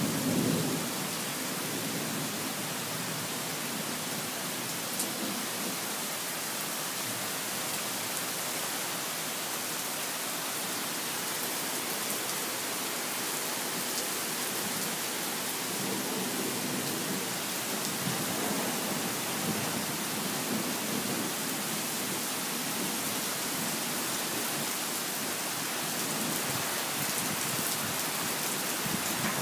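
Steady rain falling in a thunderstorm, an even hiss with a faint low rumble now and then.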